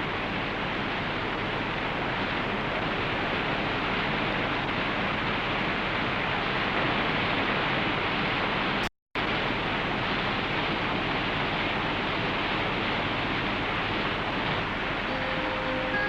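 Steady rush of white water from river rapids, with a brief dropout about halfway through. Faint music comes in near the end.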